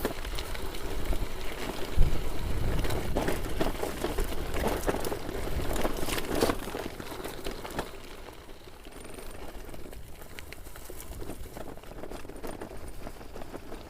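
Mountain bike going down a dirt trail: irregular clicks and rattles over a low rumble of wind on the microphone, easing off about halfway through.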